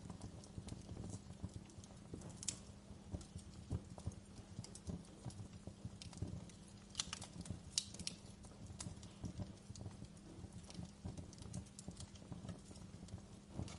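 Wood fire in a fireplace crackling, with a constant patter of small irregular snaps over a low steady rumble of the flames. A few sharper pops stand out, one about two and a half seconds in and several around seven to eight seconds in.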